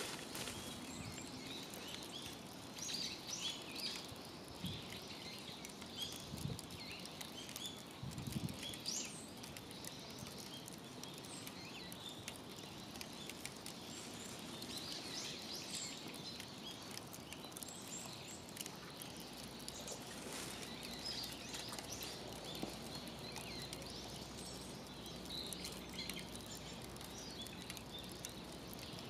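Quiet outdoor ambience: small birds chirping on and off over a steady hiss, with a few soft low knocks in the first ten seconds.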